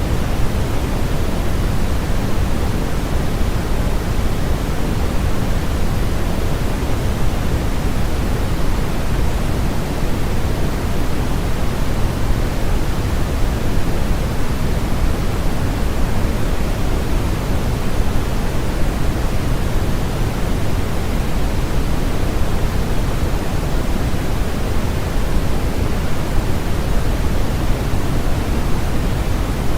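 Steady noise from a sleep-aid noise track: an even, unbroken static rush that does not change. It is fuller in the low end than a flat hiss.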